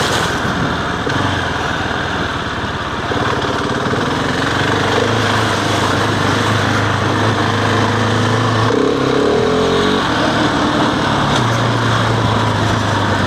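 Husqvarna 701 single-cylinder motorcycle engine running at low, steady revs on a stony downhill, with a steady rushing noise over it. The revs dip and waver about nine seconds in, then settle again.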